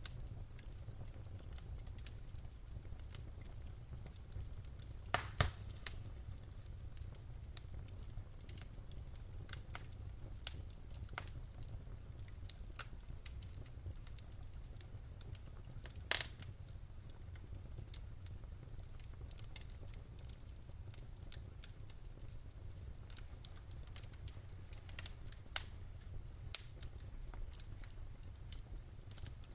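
Wood fire burning in a fireplace: irregular crackles and sharp pops over a steady low rumble of the flames, with two louder pops about 5 and 16 seconds in.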